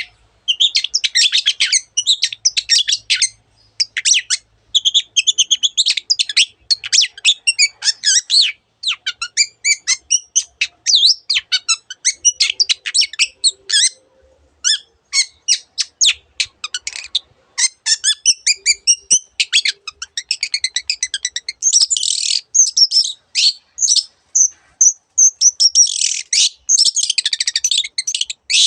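Long-tailed shrike singing a rapid, varied, high-pitched song of chirps and trills in quick runs with brief pauses. It is the cendet's full song, which mixes in imitations of other birds' calls.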